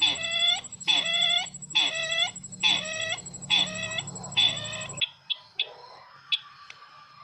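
Bird-lure playback of the call of the bird known locally as sisintar ladang: six evenly spaced harsh call notes, about one a second, each dropping in pitch, over a steady high whine and low hum from the playback. The calls and hum cut off about five seconds in, leaving a few faint clicks and chirps.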